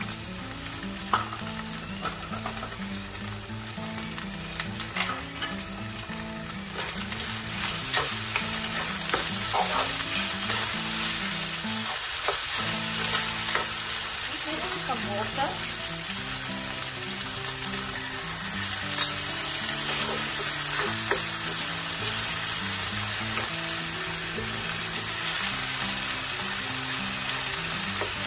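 Chicken slices and wood ear mushrooms sizzling in oil in a non-stick frying pan, stirred with a spatula that clicks and scrapes against the pan. The sizzle grows louder about seven seconds in.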